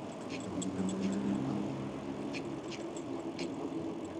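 A motor vehicle's engine running steadily, with a few faint light clicks scattered through it.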